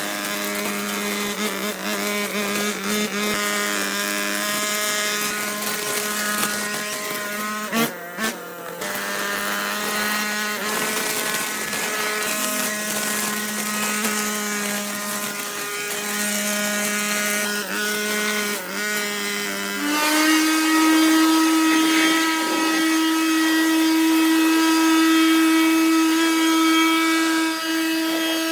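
A small petrol engine driving a tool runs steadily, then speeds up to a higher, louder pitch about two-thirds of the way through.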